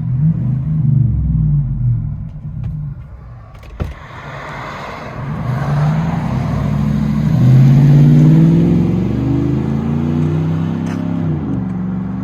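Car engine and exhaust through a 14-inch Magnaflow muffler, heard from inside the cabin. A steady low rumble climbs in revs and loudness about halfway through, then the pitch drops near the end, as at a gear change or when the throttle lifts.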